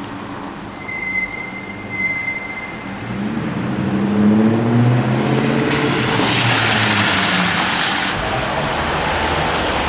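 A car engine accelerating past in street traffic, its pitch rising over a couple of seconds, followed by a wash of tyre and road noise. Two short high beeps sound near the start.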